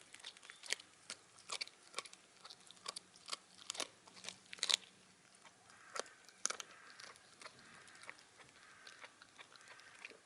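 Shiba Inu crunching and chewing the bony tips of chicken wings: irregular sharp crunches, thick and loud in the first two thirds, the loudest about four and a half seconds in, then thinning out.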